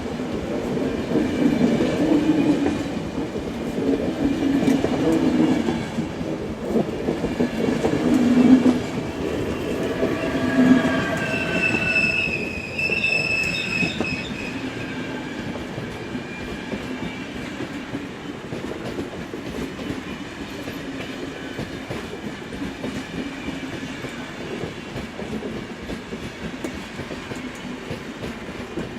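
Train rolling on the rails with a loud, uneven rumble and clatter. Its wheels squeal with high, slightly rising tones for a few seconds around the middle. After that the rumble settles into a steadier, quieter run that slowly fades.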